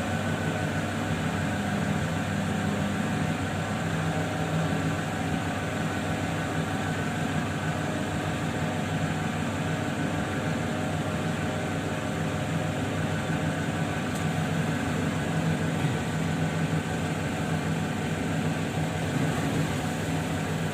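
Electric motor of a lapidary grinding wheel running steadily with no stone on it, a constant hum.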